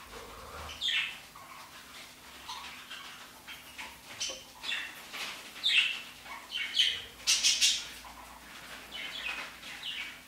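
A small bird chirping and squawking in short, irregular calls, some dropping in pitch.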